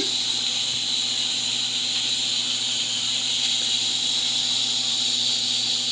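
Steady hiss of aquarium water and filter running, with a faint low hum underneath.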